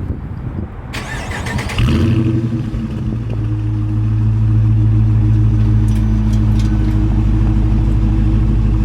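Dodge Charger R/T's 5.7-litre Hemi V8 with its stock active exhaust, cranked by the starter about a second in. It catches near two seconds and settles into a loud, steady idle.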